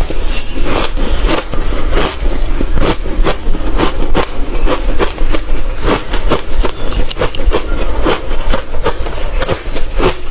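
Close-up chewing of hard refrozen crushed ice: rapid, irregular crunches, several a second, with no pause.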